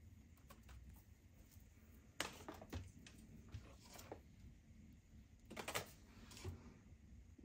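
A few small clusters of light clicks and taps from small objects being handled, about two seconds in, around four seconds and again near the end.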